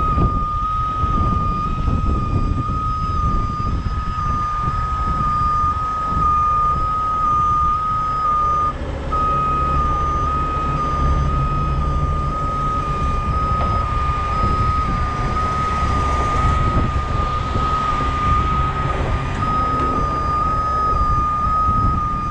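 A heavy vehicle's backup alarm beeping steadily over a diesel engine running, with a short break in the beeping about nine seconds in.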